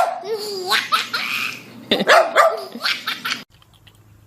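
A baby laughing in bursts, mixed with a dog barking. Both cut off suddenly about three and a half seconds in.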